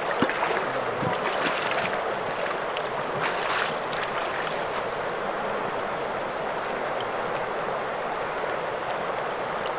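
Rushing water of a stream or river, a steady even hiss of flowing water, with a few small clicks or splashes in the first few seconds.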